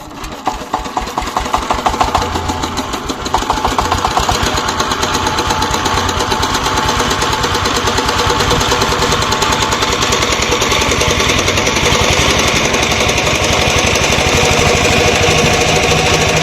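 Single-cylinder 'Peter' diesel engine driving a tubewell pump, firing in a fast, even knocking beat. It builds up speed and loudness over the first few seconds, then runs steadily.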